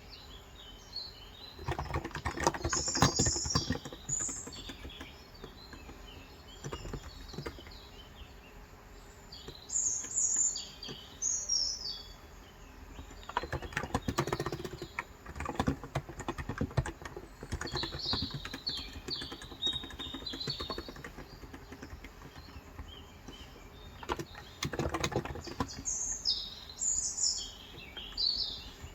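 Typing on a Cox Endeavor 35 g electro-capacitive tenkeyless keyboard in three bursts of keystrokes, with small birds chirping throughout, between and over the typing.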